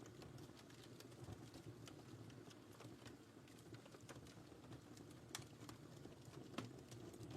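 Faint wood fire burning in a fireplace, a steady low rumble of flames with scattered crackles and a couple of sharper pops in the second half.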